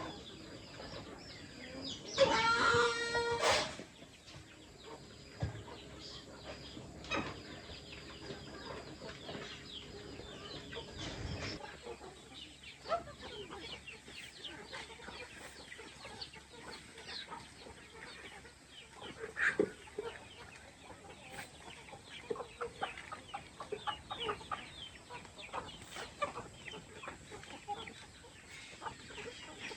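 Chickens clucking and calling in a farmyard, with many short calls throughout. A rooster crows once, loudly, about two seconds in.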